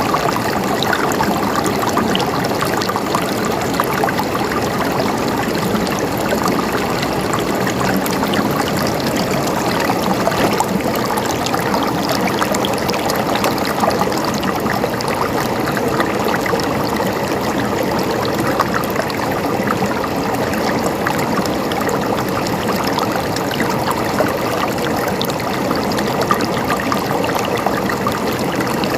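Running water flowing steadily, a continuous rush with many small splashes and trickles.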